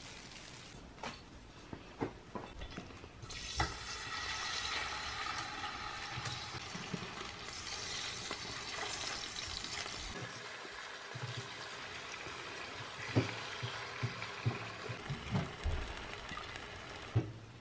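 Crinkle-cut potato slices sizzling in hot oil in a pan, starting about three seconds in, with a few light knocks near the end.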